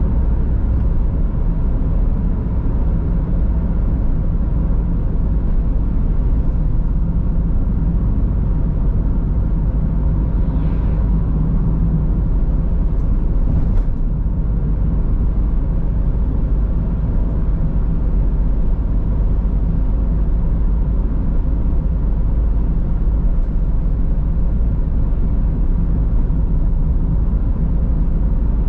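Car driving at a steady cruise: a constant low rumble of tyres on the road and the engine, with a few faint ticks about halfway.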